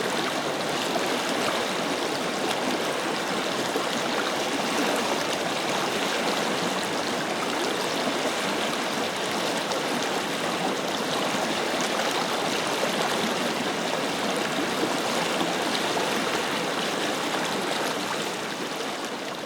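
River flowing steadily, an even rush of water, fading out near the end.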